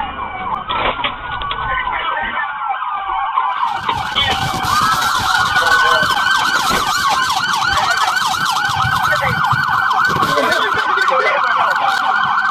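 Several police car sirens sounding at once, their slow wailing sweeps overlapping. About four seconds in, a fast yelp pattern takes over and continues steadily.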